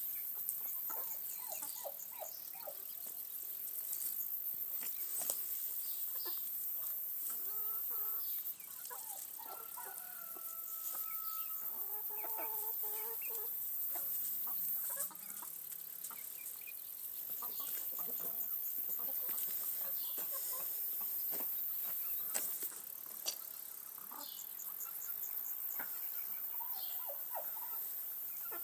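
Chickens clucking in short, scattered calls over a steady high hiss.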